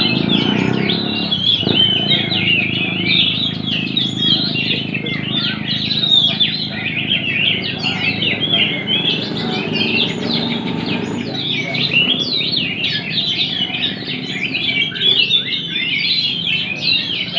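Many contest songbirds singing at once: a dense, unbroken chorus of fast chirps and trills, with people talking in the background.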